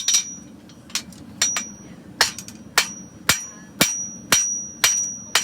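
Hand hammer striking a hot steel horseshoe on an anvil about twice a second, each blow followed by a short high ring, as the inside heel of a Shire horseshoe is forged and thinned out. A steady low hum runs underneath.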